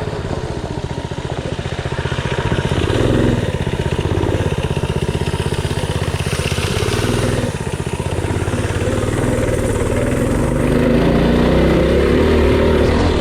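Mini bike engine running under load as the bike is ridden, its speed rising and falling, with the throttle opened up again in the last couple of seconds.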